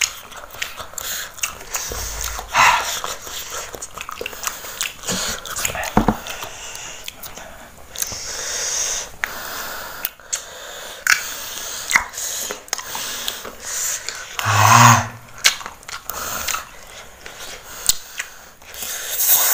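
Close-up biting and chewing of crunchy raw cassava: many sharp crunches, clicks and wet mouth noises, with breathy sounds between bites. A louder short breathy vocal sound comes about three-quarters of the way through.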